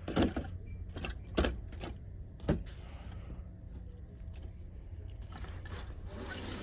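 Packaged die-cast toy cars being handled and flicked through on store pegs: three sharp plastic clacks in the first few seconds, with lighter clicks and rustles of the blister packs between them.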